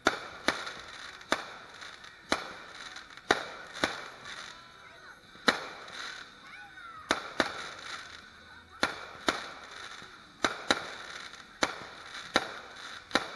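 Aerial fireworks shells bursting: an uneven string of more than a dozen sharp bangs, each trailing off in a short echo.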